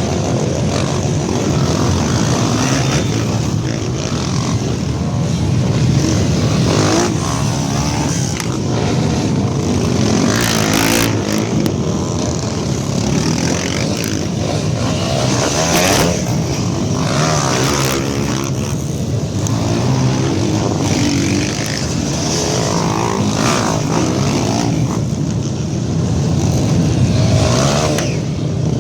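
Several trail motorcycle engines running and revving at once, their pitches rising and falling and overlapping as the bikes set off from the start.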